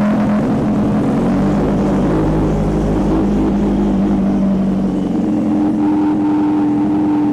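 Kawasaki Ninja H2R's supercharged inline-four engine running loud and steady, its pitch stepping up about five seconds in.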